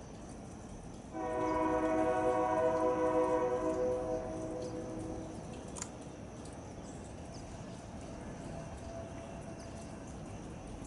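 Locomotive air horn sounding one long blast of several notes together, starting suddenly about a second in, holding for about three seconds and then fading away.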